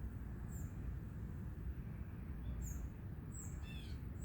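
Faint short high chirps from birds, repeating every second or so, with a brief run of falling notes about three and a half seconds in, over a low steady outdoor rumble.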